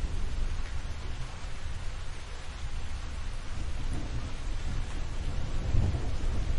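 Thunderstorm: steady rain hissing over low rolling thunder, which swells to a louder rumble near the end.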